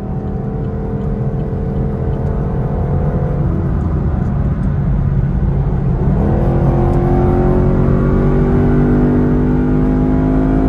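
Chevrolet Camaro SS's 6.2-litre V8 under hard acceleration, heard from inside the cabin. The engine note climbs steadily through a long gear in track mode, drops and climbs again about six seconds in, and steps down with a gear change at the end, getting louder throughout.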